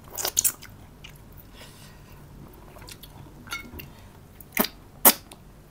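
Close-miked eating sounds of a man eating fish and rice with his hands: chewing with a few sharp lip smacks, the loudest two near the end.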